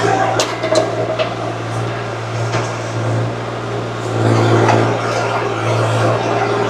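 Mini excavator engine running steadily under work, with a few sharp knocks in the first two seconds. It gets louder for a moment about four seconds in.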